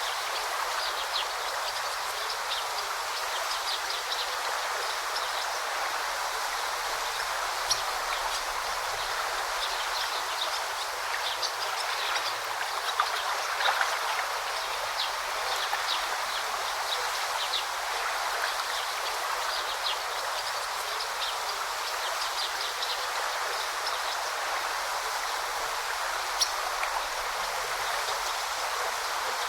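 Forest river flowing steadily, a continuous rush of water, with short high bird chirps scattered through it and a few brief louder clicks.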